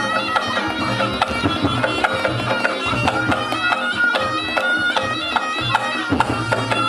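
Reog Ponorogo gamelan music played live. A slompret (a shrill double-reed shawm) holds a nasal, wavering melody over quick, busy drum and gong strokes.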